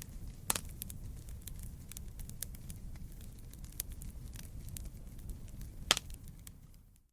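Wood campfire crackling: a steady low rumble of burning with many small snaps, and two louder pops, about half a second in and near six seconds.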